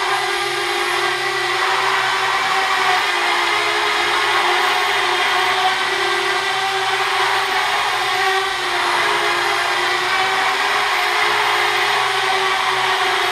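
Parrot Bebop quadcopter's propellers buzzing steadily as it hovers, a held whine with a hiss over it.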